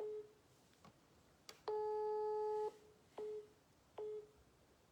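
Telephone line tones heard over the call: short beeps of a single steady pitch, one about every 0.8 s, with one longer beep of about a second in the middle, like a busy signal.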